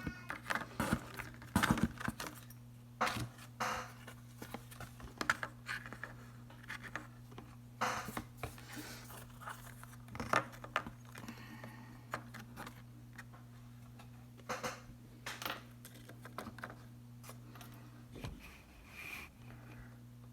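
Oracle cards being shuffled and drawn: irregular rustles, flicks and slaps of card stock, over a steady low hum.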